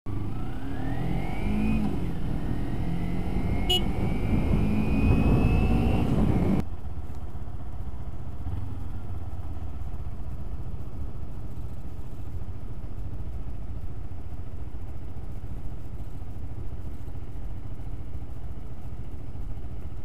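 Kawasaki Ninja 250 parallel-twin motorcycle engine revving as the bike accelerates. Its pitch climbs, drops once at a gear change about two seconds in, then climbs again for several seconds. About six and a half seconds in, the sound cuts abruptly to a steady low rumble.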